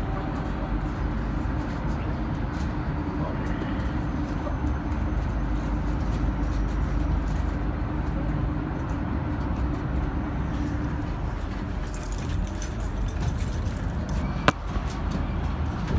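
V/Line H-set passenger train running, a steady low rumble with a droning hum underneath. A single sharp click comes near the end.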